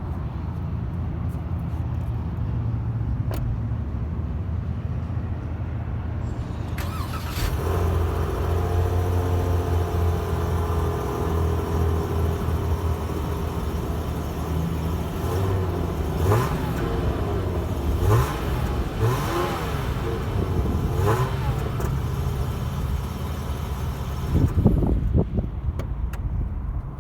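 A 2022 Chrysler 300S engine cold starting about seven seconds in and running at a fast cold idle, with several short revs between about sixteen and twenty-one seconds.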